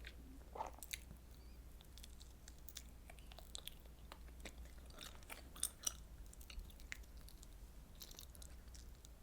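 Close-miked chewing of fish cake and rice cake in soup: soft wet mouth clicks and smacks, with a couple of sharper crackles near the middle.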